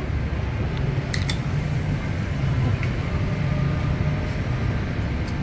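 Steady low engine rumble of street traffic or an idling motor, with a couple of faint clicks.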